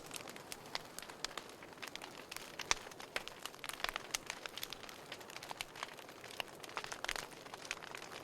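Wood fire burning in a fireplace, crackling with frequent irregular pops and snaps over a soft hiss of flame.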